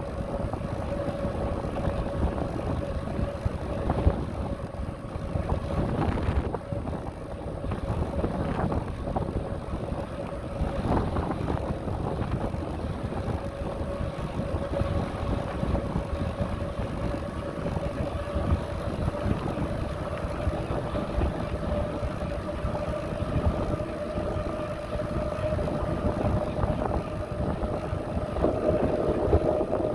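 Wind buffeting the microphone and rolling noise of a moving bicycle, with a thin steady whine held throughout and a few brief knocks.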